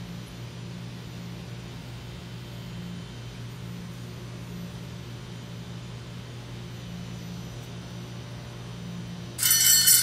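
Steady low hum and hiss of a stationary EMU900 electric commuter train standing with its doors open. Near the end a loud electric bell starts ringing suddenly, the kind that signals departure.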